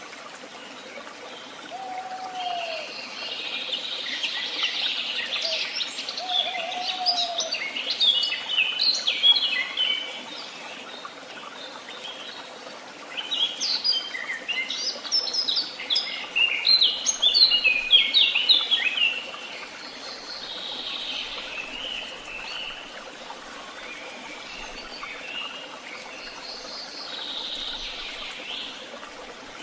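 Woodland songbirds singing: two long phrases of rapid, high notes, the second starting about halfway through, with a few low, arched calls during the first phrase and softer song afterwards over a steady faint hiss.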